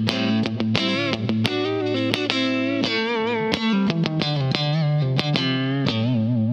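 Clean electric guitar played through a Boss CS-3 Compressor/Sustainer pedal with the compression engaged: a run of picked single notes, some bent or shaken with vibrato, held at an even level.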